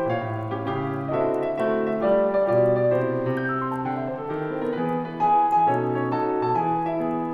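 Solo piano playing a Christmas song from a piano medley, a melody over sustained low bass notes.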